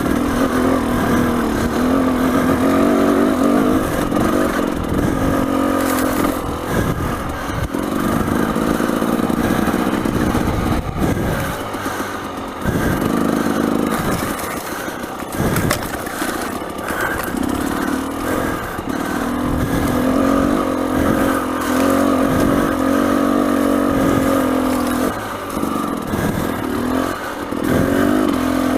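Dirt bike engine running and revving up and down over and over as it climbs rough trail, with scattered knocks and clatter.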